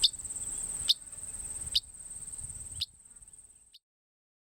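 Insects trilling steadily at a high pitch, with a short sharp chirp about once a second. The sound fades and cuts off to silence about three-quarters of the way through.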